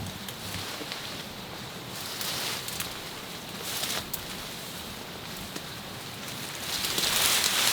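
Leaves and plants rustling and brushing as someone walks through jungle undergrowth, in uneven surges, the loudest near the end, over a steady background hiss.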